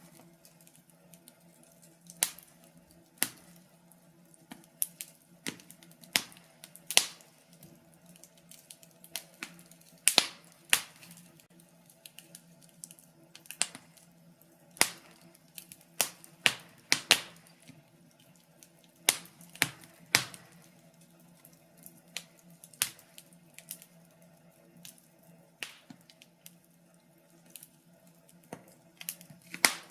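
Wood fire crackling: irregular sharp pops and snaps, sometimes several in quick succession, over a faint steady hum.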